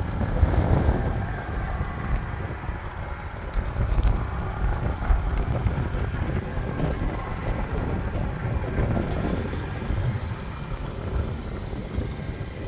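Mercedes-Benz R320 CDI's V6 diesel engine running, a steady low rumble.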